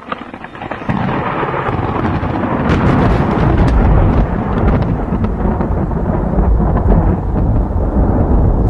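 Loud, steady rumbling and hissing noise that swells in about a second in, with scattered crackles on top.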